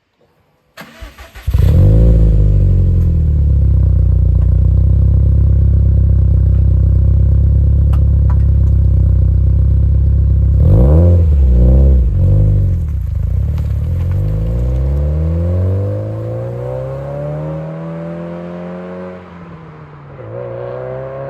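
Subaru WRX STI's turbocharged EJ20 flat-four, breathing through a Fujitsubo Authorize RM exhaust, starting after a brief crank about a second in, then idling steadily and loudly. About eleven seconds in it is revved three times in quick succession. Afterwards the revs climb slowly as the sound grows fainter, drop briefly near the end, and climb again.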